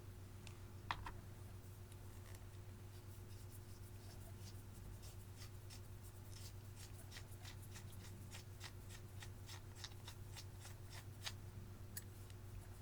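Clear slime with eyeshadow mixed in being kneaded and folded by hand, giving a run of small sticky clicks and pops, several a second, with a sharper click about a second in.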